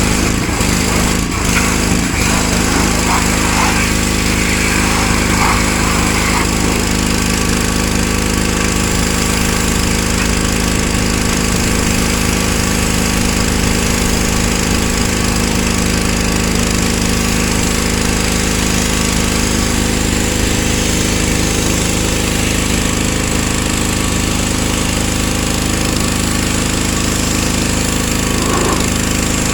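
Pressure washer running steadily, its small engine droning under a constant hiss of spray.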